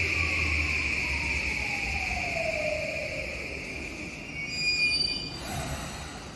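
Electric commuter train braking to a stop at the platform: the running rumble fades while the motor whine slides down in pitch, a short high brake squeal comes about four and a half seconds in, and a brief hiss of air follows as it halts.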